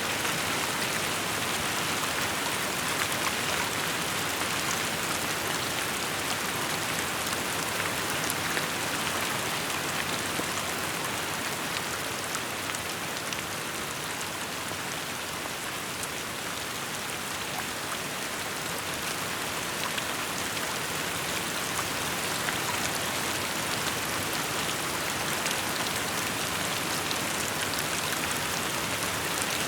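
Steady rainfall: an even hiss of rain with many small, scattered drop ticks.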